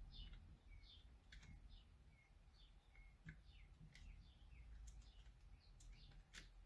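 Faint small birds chirping repeatedly in the background, with a few light clicks scattered through.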